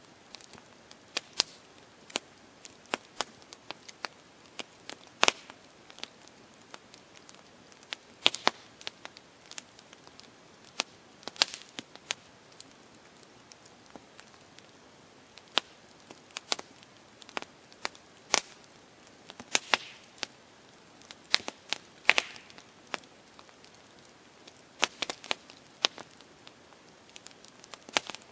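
Campfire crackling: burning wood snapping and popping at irregular intervals, with a faint hiss of flames underneath.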